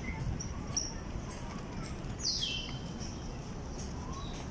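Birds chirping: short high calls scattered throughout, with one louder call sweeping downward in pitch a little past two seconds in, over a steady low outdoor rumble.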